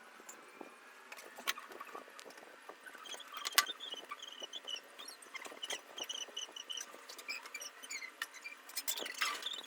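Light clicks and taps of small tools working on an opened Bluetooth headset during soldering. Through them, from about three seconds in, run quick series of short high chirps, several a second.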